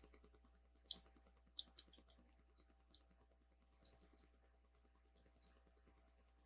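Small plastic Lego pieces clicking faintly as they are handled and picked through: about ten light, scattered ticks, the sharpest about a second in.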